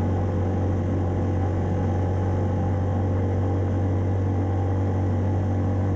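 1994 Yamaha Timberwolf 4x4 ATV's single-cylinder four-stroke engine running steadily under way, its pitch holding even.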